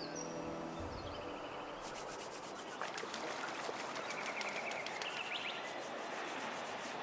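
Birds chirping over a steady outdoor hiss, with a fast ticking trill starting about two seconds in.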